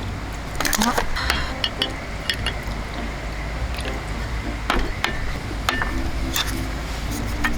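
Scattered light clicks and clinks, as of tableware being handled after a meal, over a steady low background rumble.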